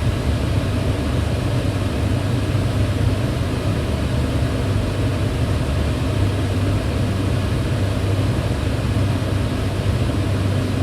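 Kitchen range hood fan running steadily: an even rush of air with a strong low hum, unchanging throughout.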